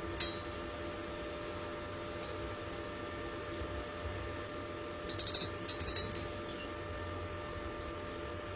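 Steady electrical hum with a sharp click just after the start, a couple of faint ticks, and a quick rattle of light clicks about five to six seconds in.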